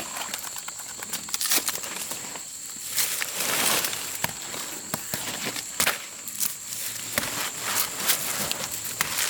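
Dry leaves and twigs rustling and crackling underfoot and by hand, in irregular sharp snaps and clicks with a louder rustle partway through, over a thin steady high-pitched whine.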